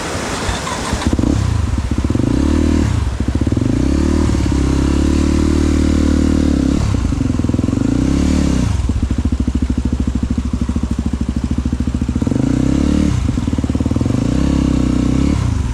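Motorcycle engine running, its pitch falling and rising again several times. It comes in suddenly about a second in and cuts off at the very end, over a steady hiss of rain.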